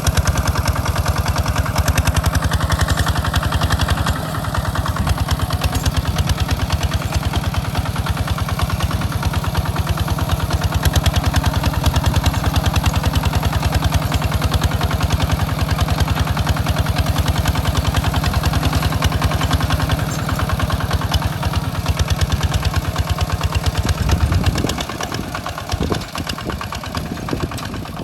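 Two-wheel walk-behind tractor's single-cylinder engine chugging steadily with a rapid, even beat of firing pulses. About 24 s in, it drops in level and becomes uneven.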